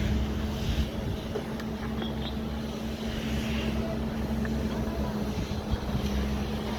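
An engine or motor running at a constant speed, giving a steady drone with an even hum.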